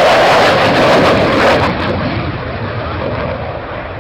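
Jet aircraft flying past with a loud, rushing engine noise that peaks in the first second and a half, then fades away.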